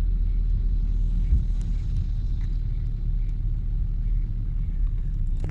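Car driving through city streets: a steady low rumble of engine and road noise heard from inside the cabin.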